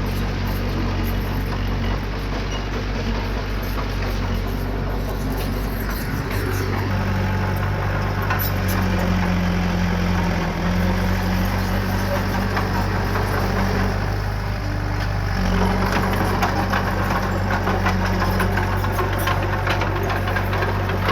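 Diesel engine of earthmoving machinery running steadily. Its note strengthens about a third of the way in, drops briefly about two-thirds in, then picks up again with a dense rattle.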